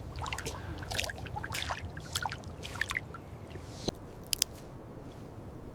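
Snow leopard lapping water, with irregular wet slurping and dripping sounds that thin out after about three seconds.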